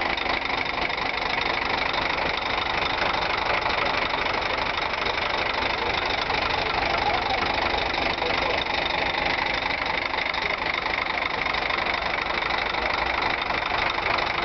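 Scania K420 coach's diesel engine running steadily, with no revving.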